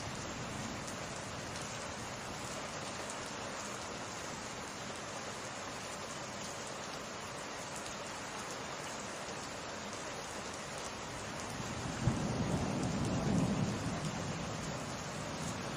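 Steady summer rain falling. About twelve seconds in comes a sharp crack of thunder, followed by a low rumble that lasts a couple of seconds.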